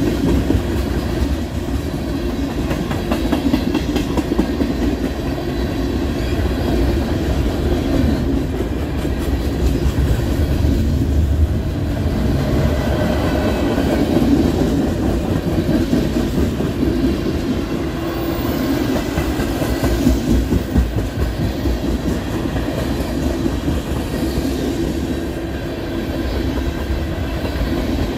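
CSX freight train of railroad tank cars rolling past, giving a steady, continuous noise of steel wheels running on the rails.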